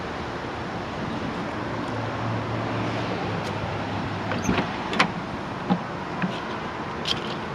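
Several sharp clicks and knocks over steady background noise, from handling the door of a Jeep Wrangler whose engine is not yet running.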